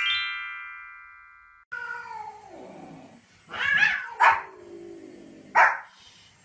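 A falling run of bell-like notes rings and fades out over the first second and a half. Then a dog gives a long whine that slides down in pitch, followed by three short, loud barks, the first two close together.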